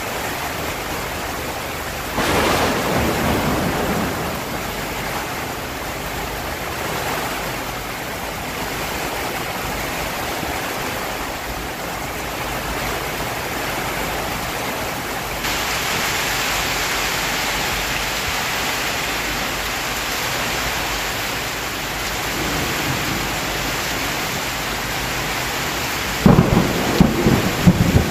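Heavy rain falling steadily, with a roll of thunder about two seconds in and sharper, louder claps of thunder near the end. The rain grows brighter and a little louder about halfway through.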